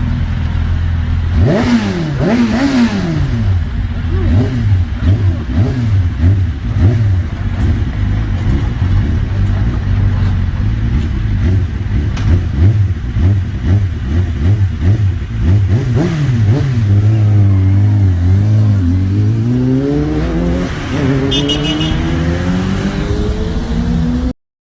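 Motorcycle engine idling, then revved again and again in quick blips that rise and fall in pitch. Near the end it is held up and then climbs in one long rev before cutting off suddenly.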